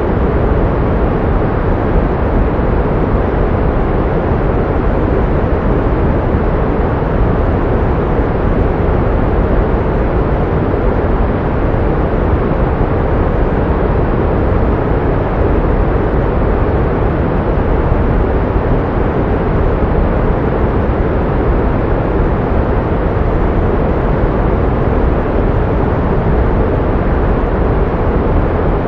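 Steady pink noise: an even, unchanging hiss weighted toward the low and middle range and fading off in the treble.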